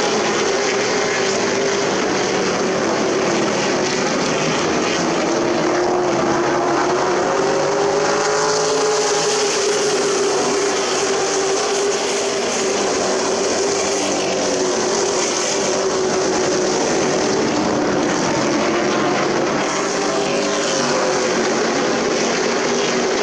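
Racing super trucks running laps on an oval short track, several engines at once, their pitch wavering slowly up and down.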